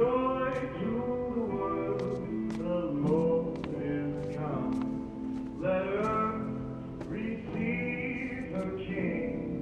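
A song playing: a single voice sings a slow melody over sustained instrumental backing.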